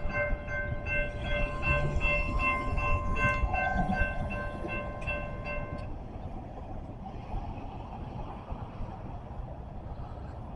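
Train passing with a low rumble from its wheels and cars, under a steady ringing warning signal of several tones that cuts off abruptly about six seconds in; the rumble continues more quietly after.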